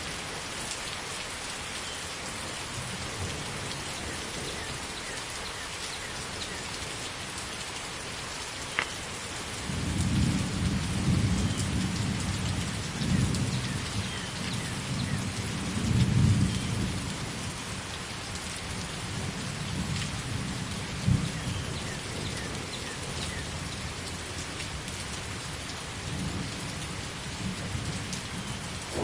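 Steady rain falling, with rolling thunder rumbling in from about a third of the way in, loudest around the middle, then fainter rumbles later.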